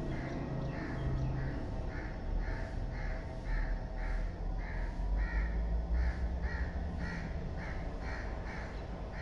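A bird giving short, harsh calls over and over at an even pace, about two or three a second, over a low rumble.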